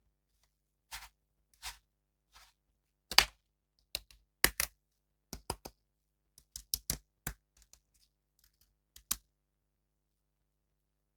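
Irregular sharp clicks, taps and crinkles from plastic toy figures and their packaging being handled, about twenty in all, some in quick pairs and the loudest a few seconds in.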